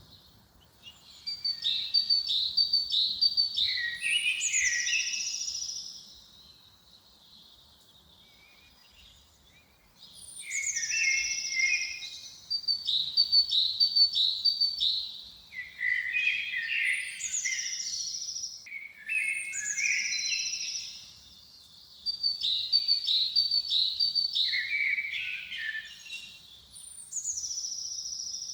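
A songbird singing the same phrase over and over, about five times with short pauses between: a run of quick high chirps ending in a falling trill.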